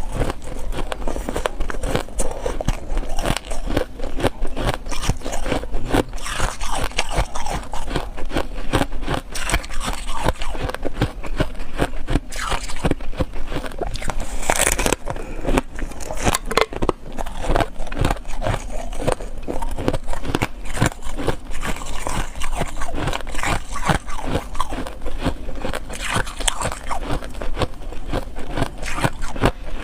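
Ice being bitten and chewed: a dense, unbroken run of sharp cracks and crunches throughout.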